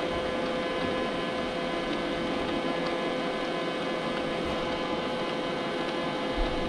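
Robot vacuum cleaner running: a steady motor-and-fan whir with a constant tone in it. A soft low bump near the end.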